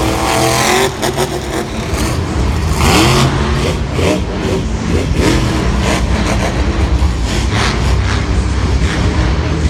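Lucas Oil Crusader monster truck's supercharged V8 revving hard, the engine note climbing and falling several times over a heavy steady rumble.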